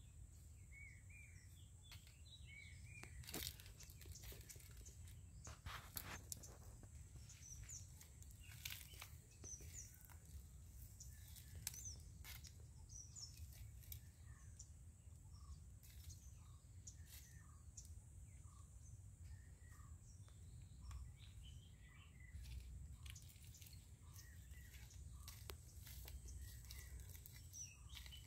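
Faint birdsong: small birds chirping, with one short call repeated about once a second through the middle stretch. Scattered sharp clicks and a low rumble sit underneath.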